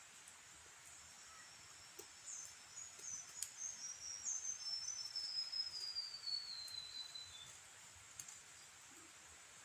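A bird singing a run of short, high notes that step down in pitch over about five seconds.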